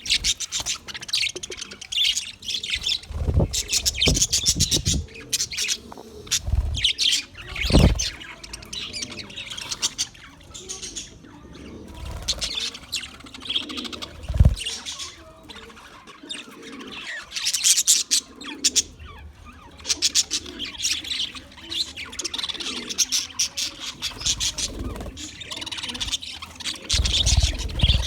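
English budgerigar chattering and warbling in fast, continuous chirps, with a few low thumps among them.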